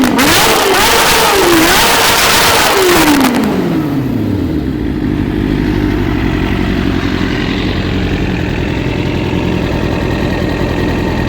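Kawasaki Ninja ZX-6R inline-four through a Devil Carbon aftermarket exhaust, blipped rapidly several times with popping and crackling from the exhaust. About three seconds in the revs fall away in one long drop, and the engine settles into a steady idle.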